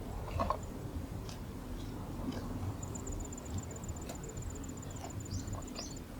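Outdoor ambience: a steady low rumble with scattered small clicks, and a high, rapid trill lasting about three seconds from about halfway through, with a few short high chirps near the end.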